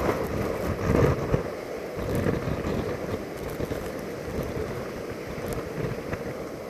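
Hurricane storm wind buffeting the microphone in uneven low gusts over a steady rushing noise.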